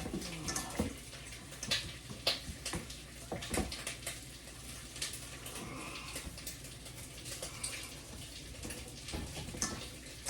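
Kitchen work: scattered clicks and knocks of handling over a steady watery hiss, which may be a running tap or something frying in a pan.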